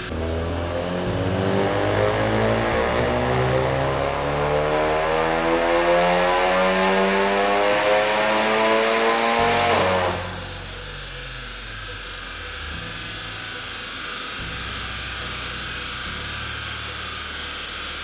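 Big-turbo VW Golf R's turbocharged 2.0-litre four-cylinder engine making a full-throttle pull, its pitch climbing steadily through the revs for about ten seconds. It then lifts off abruptly and drops to a lower, steady running sound.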